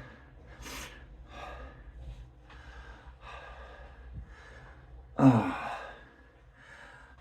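A man breathing hard in quick, repeated breaths after a set of heavy exercise, with one louder voiced exhale, a groan, about five seconds in.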